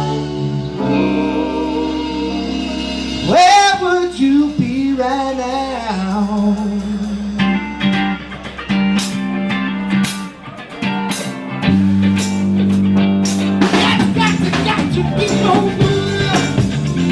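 A band playing a song, with a singer and guitar; drums or cymbals come in about nine seconds in.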